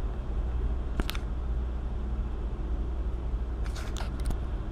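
Steady low rumble of an idling semi truck's diesel engine, with a sharp click about a second in and a few more clicks near the end.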